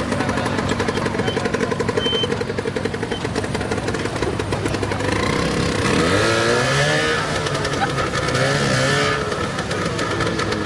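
Small motorcycle-type engine running with rapid firing, then revved up and down several times from about halfway through.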